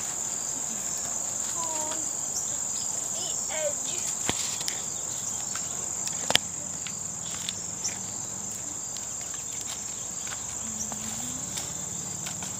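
Steady high-pitched chorus of crickets, with scattered light footsteps and clicks and one sharper click about six seconds in.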